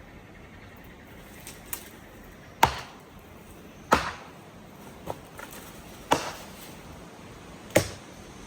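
A series of about six sharp knocks or clicks, irregularly spaced roughly a second apart, the loudest four standing well above a faint background hiss.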